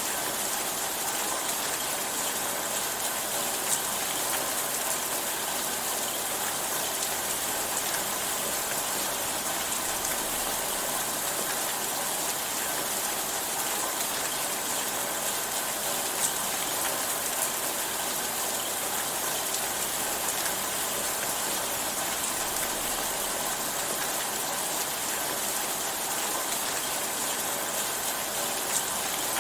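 Steady rainfall, an even hiss of rain with occasional sharper drop ticks.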